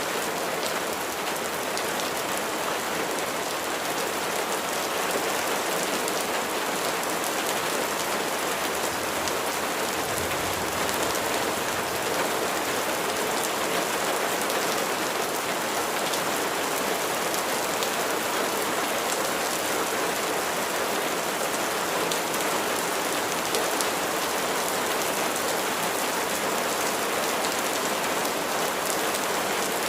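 Steady rain falling, an even hiss of many drops with no break.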